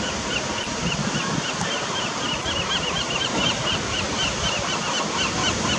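Ocean surf washing steadily onto the beach, with some wind, and a faint high chirp repeated several times a second.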